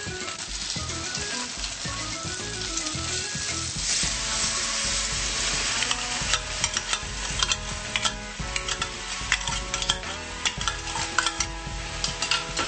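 Starch-coated firm tofu frying in a pan, sizzling; about four seconds in the sizzle grows louder as seasoning sauce is poured into the hot pan, then turns to sharp crackling pops as the sauce bubbles. Background music plays along.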